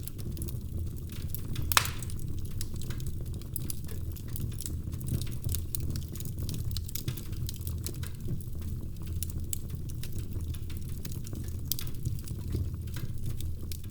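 Wood fire in a fireplace crackling: irregular sharp pops and snaps over a steady low rumble, with one louder pop a little under two seconds in.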